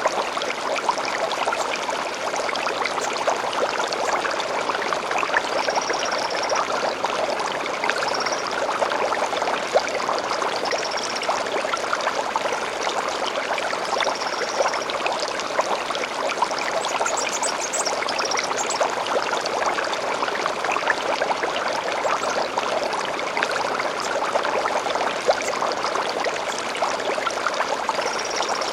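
Small stream running and trickling steadily over stones, with a bird giving short high calls every few seconds and a brief run of quick rising chirps around the middle.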